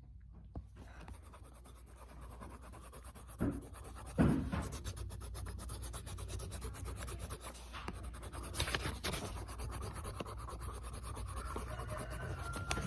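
Pencil scribbling on paper, a steady rapid scratching as an area of the drawing is shaded in, with a couple of knocks about three and four seconds in.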